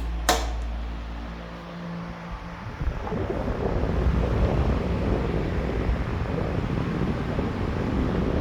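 Vintage KDK 17-inch all-metal electric fan running with a steady motor hum, with a sharp click just after the start. After nearly three seconds the fan's airstream buffets the microphone with a loud wind rush for about five seconds, then the plain hum returns.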